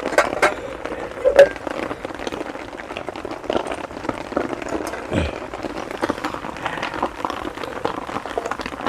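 Heavy rain falling steadily, with a few sharp clicks and knocks of gear being handled in the first second and a half.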